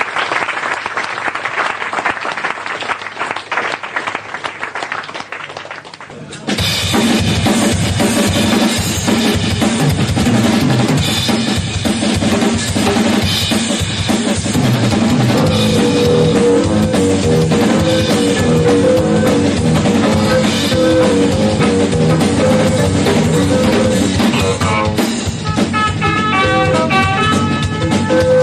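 Applause from the audience fading out. About six seconds in, a live jazz band starts abruptly, with the drum kit's bass drum and snare to the fore under sustained bass and melody notes.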